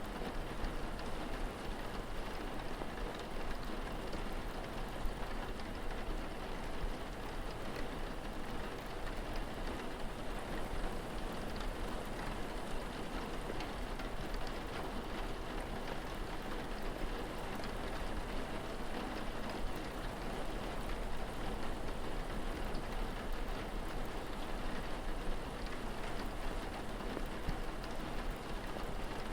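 Steady rain ambience: continuous, even patter of rain with no distinct events, over a low steady rumble.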